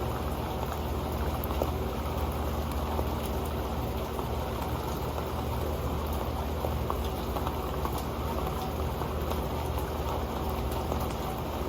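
Steady rain falling on an old pan: a dense patter of many small drop ticks over a continuous low rush.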